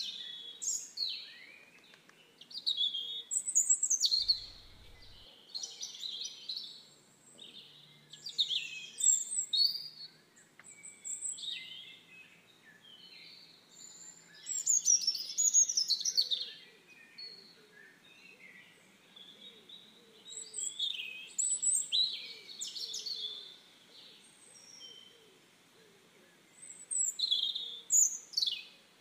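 Birds chirping and singing in quick bursts of short, high phrases with sweeping notes, a burst every few seconds.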